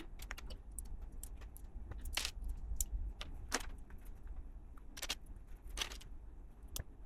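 Plastic LEGO pieces clicking and clattering now and then as they are handled during the build, with a faint low hum underneath.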